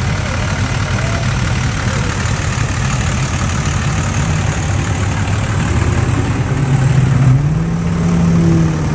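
Several classic car and hot rod engines idling and rumbling as the cars roll slowly past. About two-thirds of the way through, one engine's note rises a little and grows louder as it passes close, then eases off.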